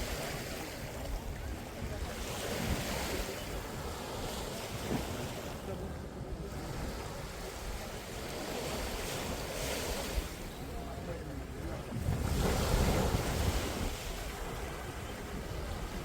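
Surf washing onto a sandy beach, with wind rumbling on the microphone; the sound swells to a louder stretch about three-quarters of the way through.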